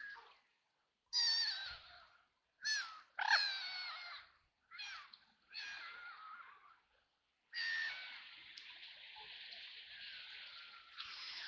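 Ducks quacking: about five separate harsh quacks that fall in pitch over the first seven seconds, then a steady hiss sets in about two-thirds of the way through.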